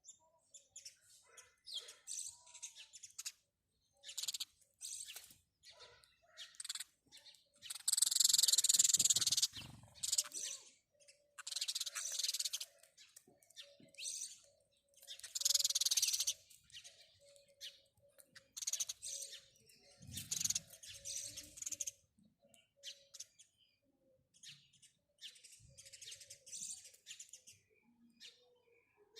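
House sparrows chirping in clusters of quick, high-pitched chirps with short pauses between them. The busiest, loudest stretch comes about a third of the way in.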